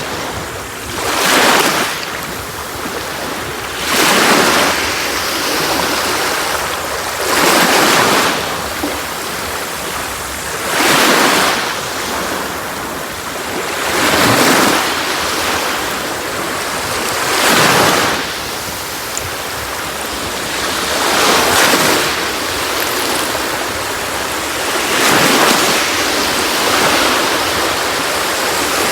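Sea waves washing onto a beach, a surge rising and falling about every three to four seconds over a steady hiss of water.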